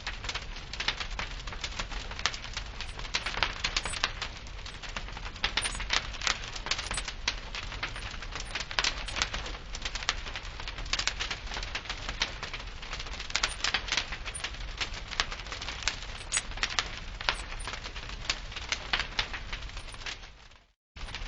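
Wood fire crackling, with frequent sharp pops over a steady hiss. Near the end it fades out to silence for a moment and then starts again.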